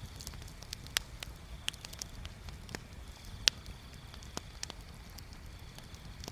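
Wood bonfire crackling, with irregular sharp pops and snaps over a low steady rumble; the loudest pop comes about halfway through.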